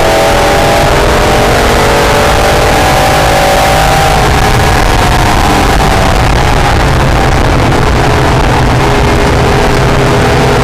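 Acura NSX's V6 engine pulling hard under load, its pitch climbing over the first few seconds and then falling away about halfway through, over heavy wind and road noise.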